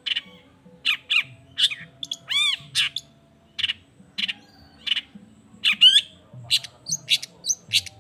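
Long-tailed shrike (cendet) singing: a quick run of short, sharp, harsh notes, a few per second, broken by a rapid trilled phrase about two and a half seconds in and another just before six seconds.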